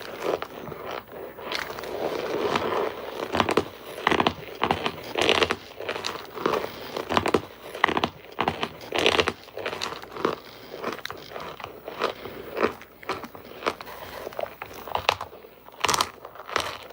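Hard baked cornstarch bricks being bitten and chewed close to the microphone: a dense, irregular run of sharp, powdery crunches, several a second.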